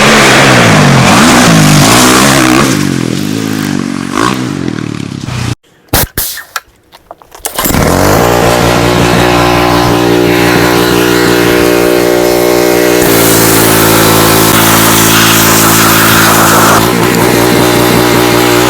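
2024 KTM XW-F 350's four-stroke single-cylinder dirt bike engine revving, its pitch rising and falling. It cuts out for about two seconds a little over five seconds in, then runs at a steady speed.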